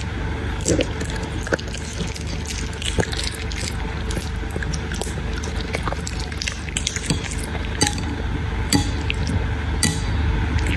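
Soaked puppy food in a bowl, with wet, irregular smacking and small clicks over a steady low hum.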